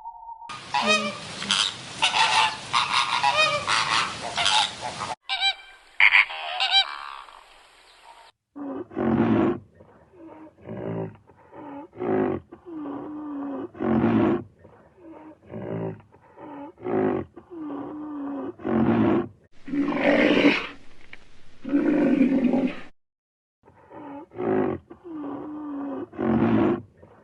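A bird honking over and over in short pitched calls, about one a second, with a few brief pauses; the first few seconds hold other, noisier animal-sound clips.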